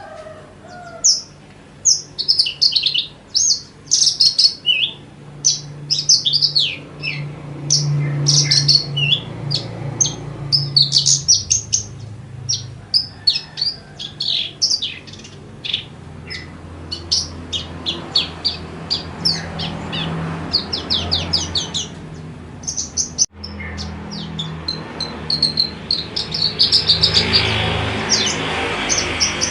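Horsfield's bushlark (branjangan) singing a fast, nearly unbroken song of high chirps, trills and quick runs of notes with only very short pauses, over a faint low hum. The sound cuts out for an instant about three-quarters of the way through.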